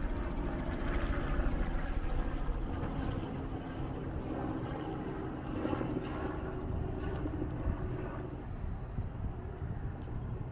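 Steady engine drone mixed with outdoor noise, easing a little after the first few seconds.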